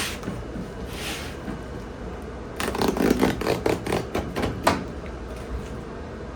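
A quick run of clattering knocks lasting about two seconds, starting near the middle and ending in one sharp, loud click, over a steady low hum.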